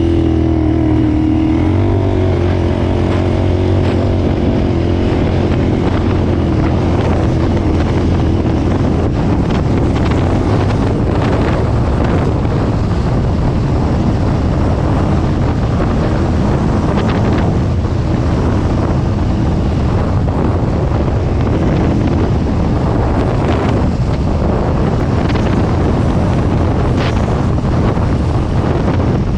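KTM 990 Adventure's V-twin engine running under way, heard from an onboard camera, with heavy wind rushing over the microphone. The engine note changes about two seconds in, then the wind noise takes over.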